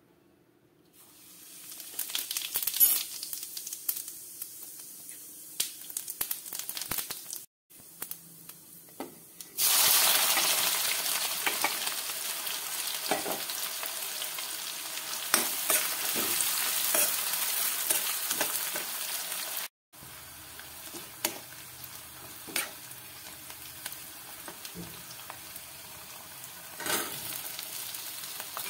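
Hot mustard oil sizzling in a metal kadhai. It jumps to a loud, steady sizzle about ten seconds in as sliced onions fry in it, with a metal spatula clicking and scraping against the pan.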